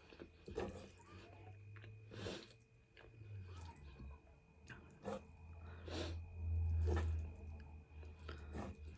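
Close-up chewing and mouth sounds of a person eating spaghetti, with short sharp clicks every second or so. A low rumble swells and is loudest about seven seconds in.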